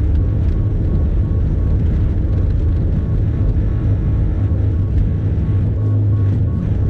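Bobcat E50 compact excavator's diesel engine running steadily under load while clearing snow, with a faint evenly pulsing high tone over it.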